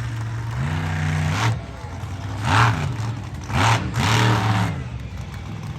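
Engine idling steadily, then revved up and down in several short throttle blips, with bursts of exhaust hiss.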